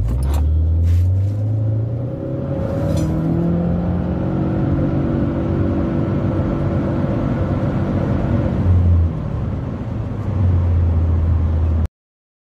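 2015 Subaru Forester tS STI's turbocharged flat-four engine pulling at full throttle in a standing-start 0–100 km/h run, heard from inside the cabin. The CVT holds the engine's pitch nearly level as the speed climbs, and the sound cuts off suddenly near the end.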